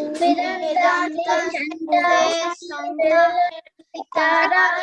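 A child chanting a line of a Sanskrit verse to a sing-song melody, in short phrases with a brief pause near the end.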